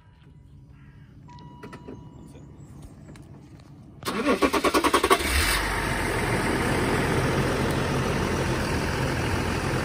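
Range Rover engine cranked by its starter motor for just over a second, catching and settling into a steady idle. It is started so the battery can power a tyre compressor without going flat.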